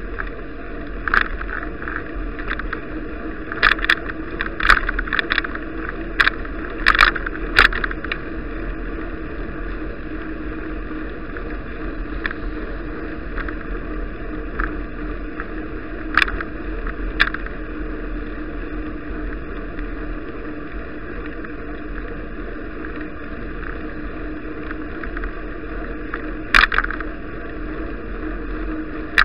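Steady riding noise from a bicycle on a snowy road, recorded by an action camera: a continuous rumble with sharp rattles and knocks, many in the first eight seconds, then a couple at about 16 seconds and one more near the end.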